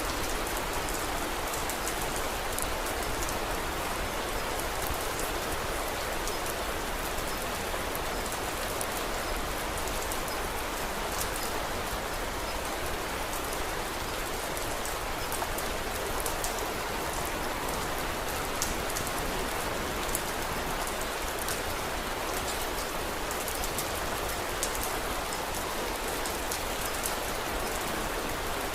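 Steady rain falling: a constant even hiss with many small, sharp ticks scattered through it.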